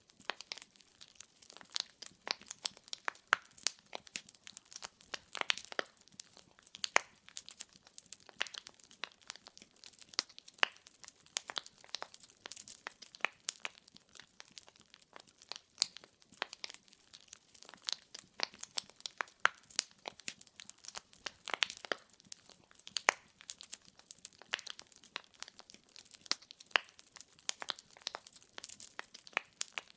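Firewood burning in a fireplace and crackling: many sharp, irregular pops and snaps over a faint hiss.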